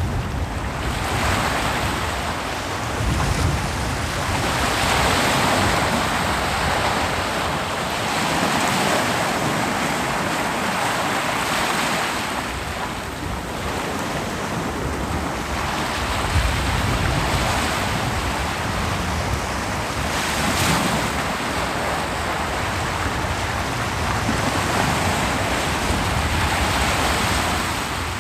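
Ocean waves breaking on a beach, a continuous surf hiss that swells and recedes every few seconds, with a brief sharper crack about twenty seconds in.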